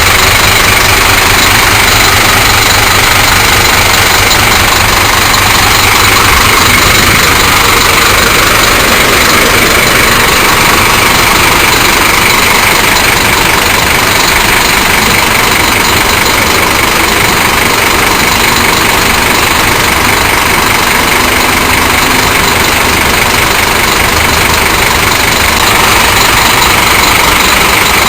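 Scania K310 coach's rear-mounted diesel engine idling steadily with a low, fast-pulsing rumble.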